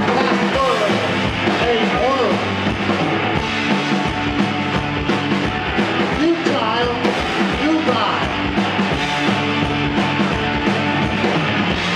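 Live rock band playing an instrumental passage: electric guitar with bending notes over bass and a steady drum beat.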